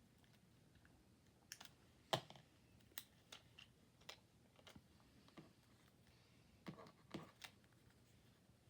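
Scattered light clicks and taps of paper and card being handled on a tabletop while a sticker is laid onto a craft card, about a dozen in all, the sharpest about two seconds in and a small cluster late on.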